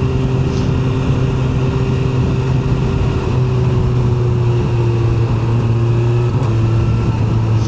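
QJMotor SRK 921 RR's inline-four engine running at a steady cruise, its note easing down slightly a few times.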